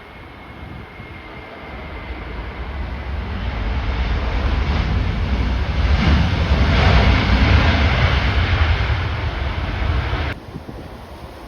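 Jet airliner on approach, its engine roar building over several seconds to a peak and then easing, mixed with gusting storm wind buffeting the microphone. The roar cuts off abruptly near the end.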